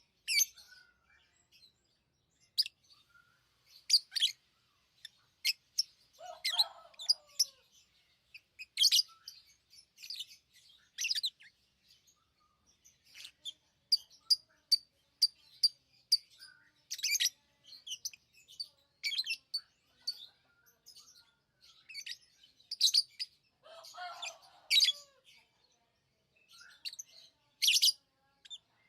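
Lovebirds chirping: short, sharp, high-pitched chirps at irregular intervals, with two lower, falling, rougher calls, one about six seconds in and one near twenty-four seconds.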